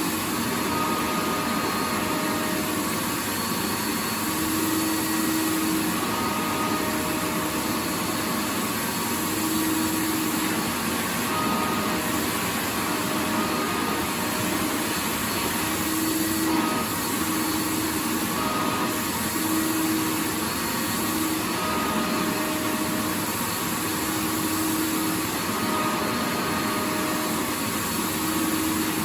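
Vacuum cleaner running continuously: a steady rush of air noise with a faint motor hum that fades in and out every few seconds.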